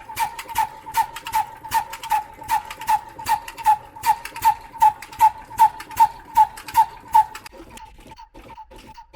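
Old slow-speed black diesel mill engine running, a ringing metallic clack on every beat at about two and a half beats a second. A little after seven seconds the loud clacks stop and fainter, quicker ticking follows.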